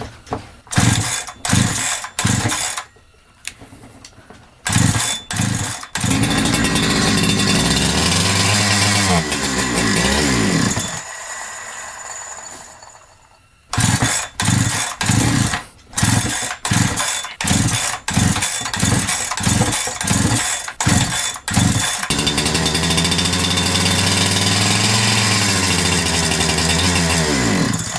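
Two-stroke Holzfforma G372XP chainsaw being pull-started with a run of quick cord pulls; it catches and runs for about five seconds with its speed sagging, then dies. After another run of pulls it catches again and runs unevenly, speed dropping, as if starving for fuel, which the owner takes for a fuel-related issue.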